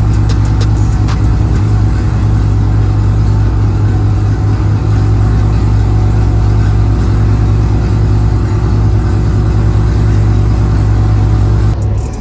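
Chevrolet Camaro SS V8 idling steadily, a deep even drone that holds unchanged, cutting off near the end.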